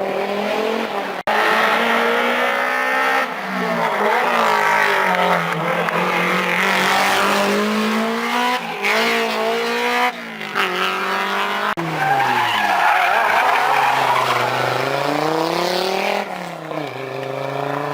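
Classic rally cars at full competition pace, engines revving hard and dropping through gear changes and braking, with tyre noise and squeal. The sound changes abruptly twice, about a second in and again near two-thirds of the way, where one pass gives way to another.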